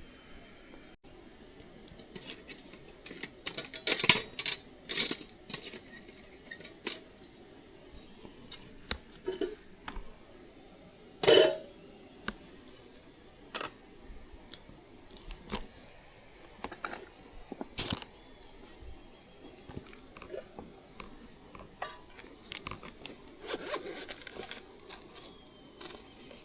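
Irregular clicks, knocks and scrapes, like hard objects being handled and set down. The loudest is a short clattering clunk with a brief ring about eleven seconds in.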